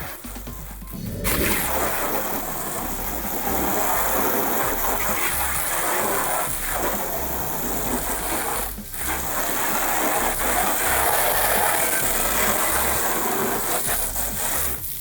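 A cleaning tool gives a loud, steady rushing hiss that starts about a second in and breaks off briefly twice.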